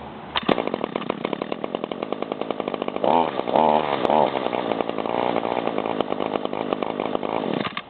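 Echo GT-225 string trimmer's two-stroke engine cold-starting with the choke on. It catches about half a second in and runs unevenly, rising and falling in speed, then cuts out shortly before the end.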